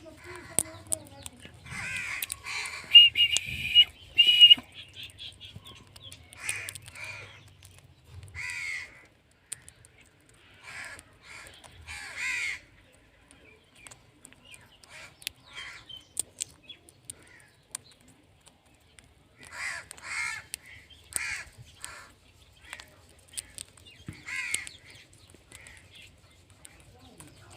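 Parrot giving harsh squawking calls in short bursts and clusters, with pauses between. The loudest run comes about three to four seconds in.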